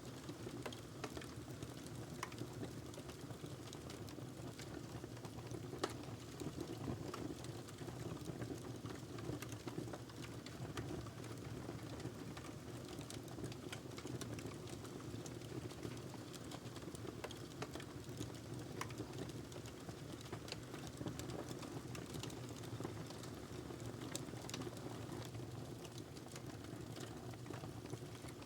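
Wood fire burning in a fireplace, crackling and popping with many small irregular snaps over a steady low rush of flames.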